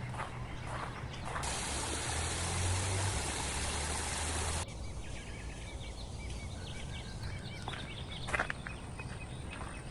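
Outdoor nature sounds: a steady rush of running water starts suddenly about a second and a half in and cuts off sharply a few seconds later. Quieter outdoor ambience with small clicks and short chirps follows.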